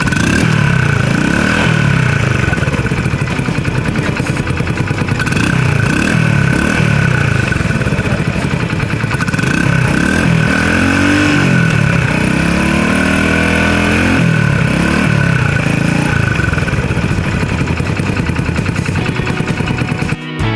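Honda Super Cub engine running, its revs rising and falling again and again, about once a second, with a steady high whine above it.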